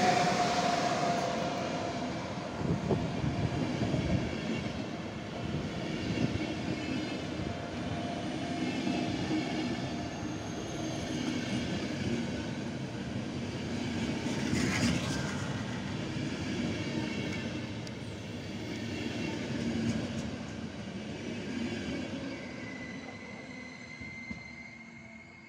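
Siemens EU44 Husarz electric locomotive passing close at the head of an arriving passenger train, with a steady humming tone as it goes by. The coaches then roll past with rumbling and irregular wheel knocks, fading as the train draws away, and a thin high squeal comes near the end.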